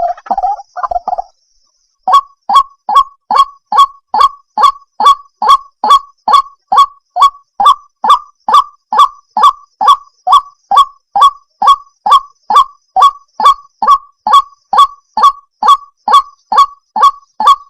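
White-breasted waterhen (ruak-ruak) calling: a short, harsh note repeated very steadily about twice a second. It starts about two seconds in, after a brief burst of calling and a short pause.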